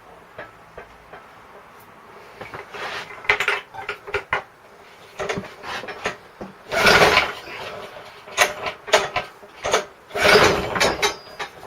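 3.5 hp Briggs & Stratton lawn mower engine pulled over several times on its recoil starter, cranking in rough bursts of about a second without running, after fuel has been poured down the spark plug hole.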